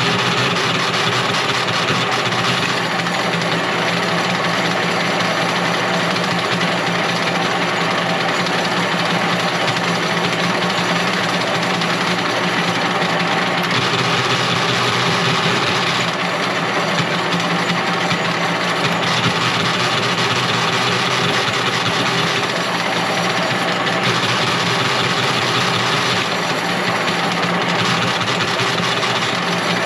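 A motor or engine running steadily, a constant hum under a dense mechanical noise.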